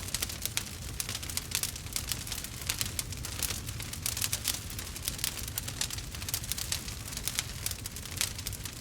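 Wood fire burning, with dense, irregular crackles and small pops over a low steady rumble.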